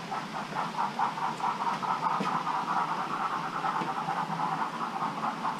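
OO gauge model trains running around the layout, making a steady, rapid rhythmic clatter of about five or six beats a second.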